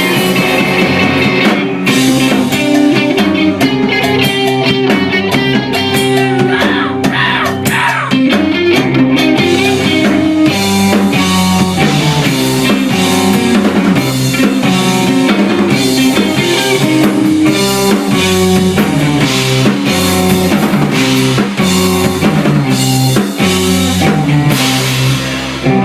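Rock band playing live: guitar over a drum kit, loud and steady, with regular drum hits driving the beat.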